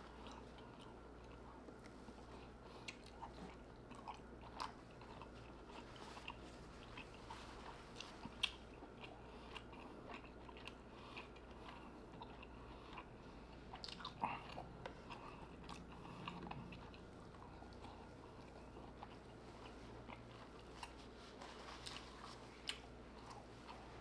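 A person chewing soft crab meat close to the microphone: quiet, scattered wet mouth clicks and smacks, with a few sharper clicks about eight and fourteen seconds in, over a faint steady hum.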